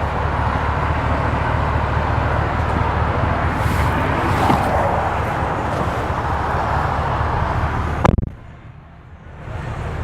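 Steady outdoor traffic and vehicle noise. About eight seconds in comes a single heavy thud, likely the SUV's rear door shutting, after which the outside noise drops away to a muffled hush.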